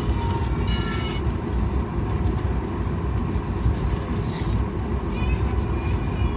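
Steady low rumble inside the cabin of a Southwest Boeing 737 taxiing after landing, with faint voices in the background.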